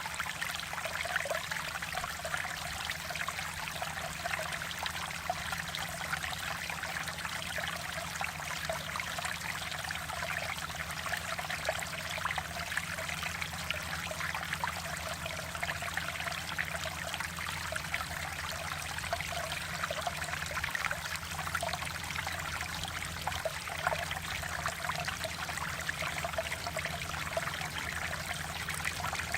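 Mountain valley stream flowing steadily over rocks, a continuous even rush of water. A faint steady low hum lies underneath.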